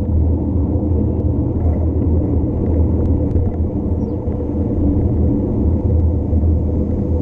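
Wind rumbling steadily on the microphone of a camera riding on a bike during a fast downhill run, with a few faint ticks above it.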